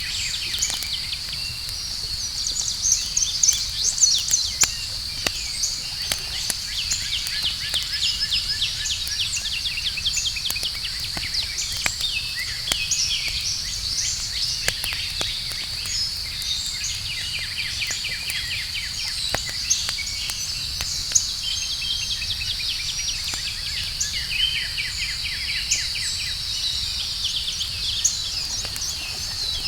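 Outdoor campfire crackling with scattered sharp pops, over a steady high-pitched cricket trill and frequent rapid bird chirps.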